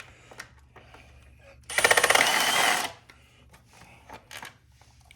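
A cordless impact tool runs in one burst of a little over a second, hammering rapidly as it works on an 8 mm fastener. Light metallic clicks of tools and parts come before and after it.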